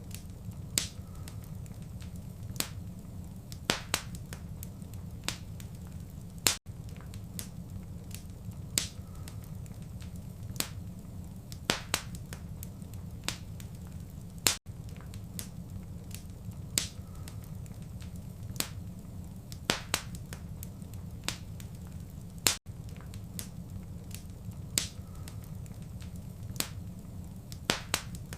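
Wood fire in a fireplace crackling: sharp pops every couple of seconds over a steady low rumble of the flames. The recording loops every eight seconds, leaving a very brief dropout at each seam.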